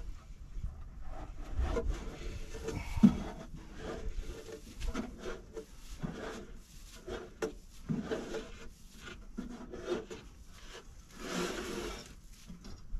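Hands scraping and pulling packed bark and sawdust out of a plugged sawmill dust-collector duct: irregular rubbing and scraping with scattered knocks. The sharpest knock comes about three seconds in, and a longer scrape comes near the end.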